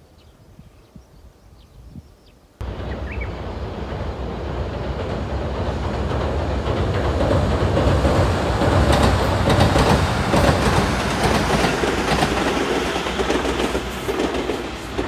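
Tobu 20400 series electric commuter train passing on the line: a rumble with a rapid clatter of wheels over rail joints, building to its loudest about two thirds of the way through. The train sound comes in abruptly about two and a half seconds in, after faint bird chirps.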